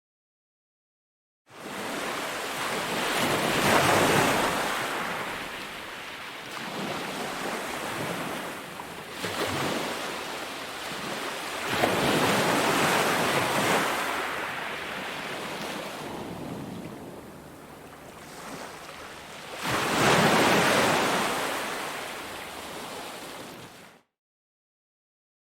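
Sea waves breaking on a beach. Three big surges about eight seconds apart each swell up and wash back. The sound drops out to dead silence for a moment at the very start and again near the end.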